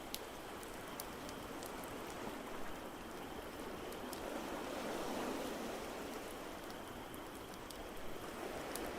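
Steady rushing wash of ocean surf, swelling gently about halfway through, with the scattered sharp crackles and pops of a wood fire in a fireplace over it.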